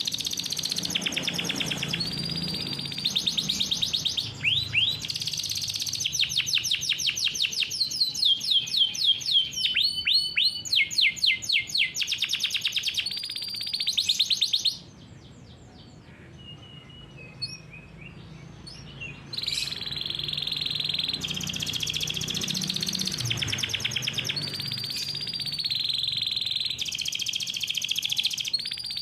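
Domestic canary singing a long rolling song of fast trills and rapidly repeated notes. The song breaks off for about five seconds near the middle, then resumes with steadier held notes.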